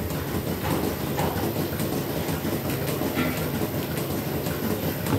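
Dairy milking-shed machinery running: a steady low mechanical hum with irregular clicks and clanks over it.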